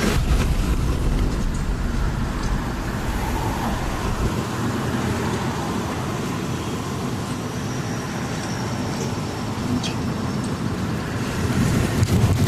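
A truck on the move: a steady rumble of engine and road noise. The deepest part of the rumble drops away about four seconds in.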